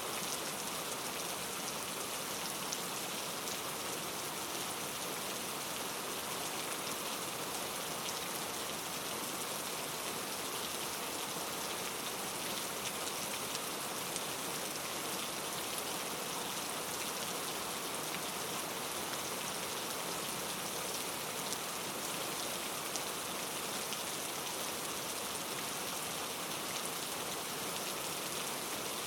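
Steady rain falling, an even hiss with many small drop taps, unchanging throughout.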